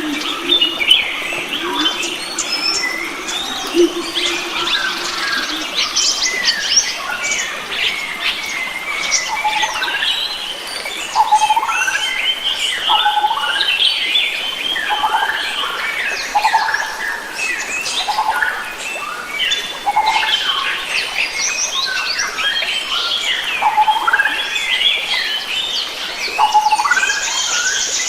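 Dense chorus of many wild forest birds calling and singing over one another. A short rising call repeats every second or two from about a third of the way in.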